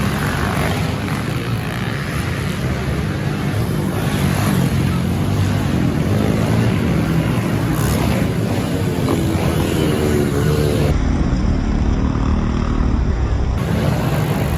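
Small dirt-bike engines running and revving in a race, their pitch rising and falling as the riders work the throttle. The sound changes abruptly about eleven seconds in, losing its hiss.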